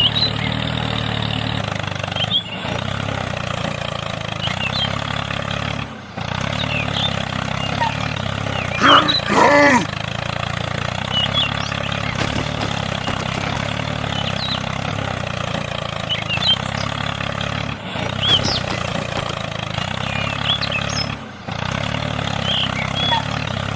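A steady low engine-like drone, broken by a few brief cutoffs. A short animal-like call with a bending pitch comes about nine seconds in.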